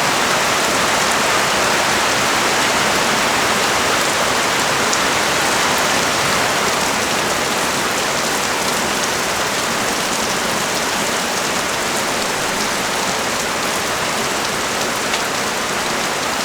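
Heavy rain pouring steadily onto a street, a dense even hiss with scattered sharper drop ticks.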